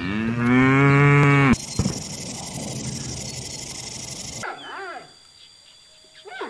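A cow moos once: a long, loud call that rises slightly in pitch and cuts off abruptly about a second and a half in. A steady hiss follows for about three seconds, then a couple of faint, short squeals near the end.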